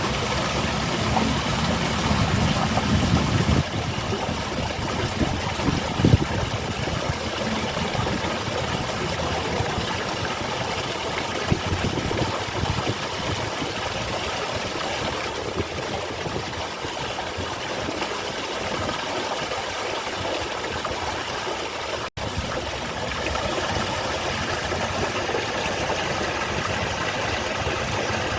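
Small garden waterfall splashing steadily into its pool, an even rushing hiss with no pauses. A low rumble sits under it for the first few seconds, and a couple of faint knocks come through.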